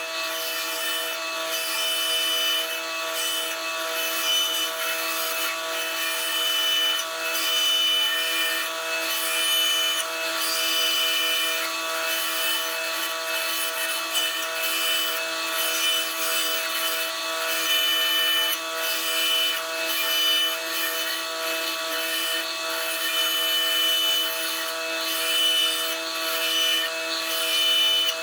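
Power saw running and cutting wood: a steady motor whine under the continuous rasp of the blade through the timber, swelling and easing slightly as the wood is fed.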